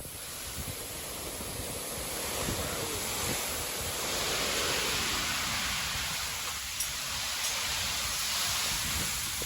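Hurricane rain pouring down with gusting wind, a steady rushing noise that swells about two seconds in, with wind rumbling on the microphone underneath.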